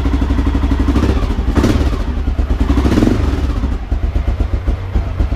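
Honda XR650L's air-cooled single-cylinder four-stroke engine idling, warming up after a cold first start on a freshly installed Mikuni TM40-6 carburettor, its firing pulses coming in a fast even beat. Its sound swells slightly for a moment about two seconds in.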